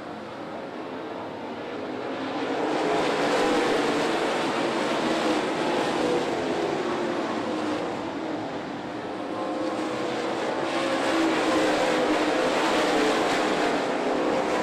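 Pack of dirt late model race cars with V8 engines running laps, their engine drone swelling twice as the field comes by.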